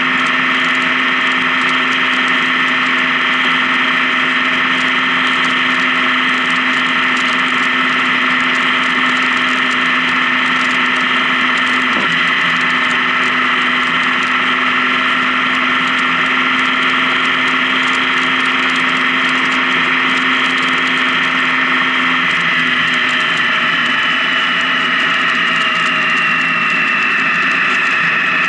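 Honda Gold Wing touring motorcycle cruising on the highway, its engine and drivetrain making a loud, steady drone. There is a brief downward sweep about twelve seconds in, and the pitch falls slightly over the last few seconds as the bike eases off.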